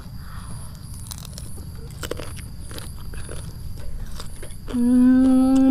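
Faint crunches and clicks of a fresh tarantula being bitten and chewed. About five seconds in comes a loud, long hummed 'mmm' held at one pitch that drops as it ends.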